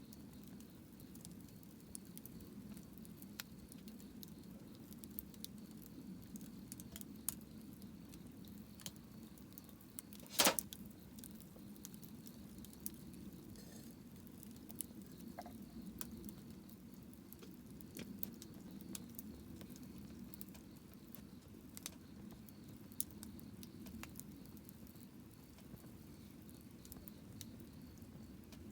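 Wood campfire crackling: scattered small snaps and ticks over a low steady rush, with one loud sharp pop about ten seconds in.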